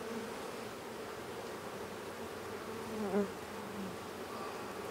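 Honey bees buzzing steadily around an opened hive, a continuous drone. About three seconds in, a brief louder swell dips in pitch.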